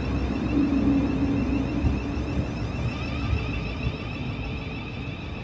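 Thameslink Class 700 electric multiple unit running into the station: a steady low rumble with a faint high whine, easing off slightly toward the end.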